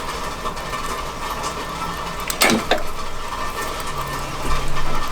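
Chicken sizzling steadily on a charcoal grill during basting, with two sharp knocks about two and a half seconds in.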